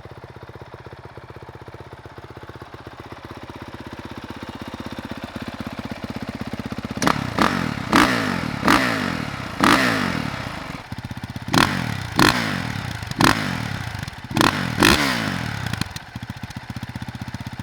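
2022 Honda CRF450R's single-cylinder four-stroke engine idling through its stock exhaust, then revved in about ten quick throttle blips, each surging sharply and falling back, before settling to idle near the end.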